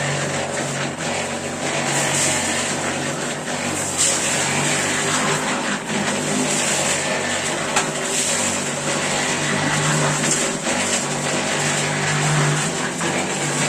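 An engine running steadily at a constant speed, giving a low hum over a broad hiss, with a couple of brief knocks.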